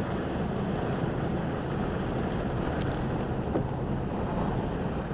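Wind buffeting the camcorder microphone: a steady low rumble with a hiss over it.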